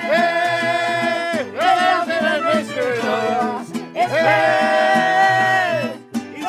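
Song with a voice singing two long held phrases over a plucked-string accompaniment.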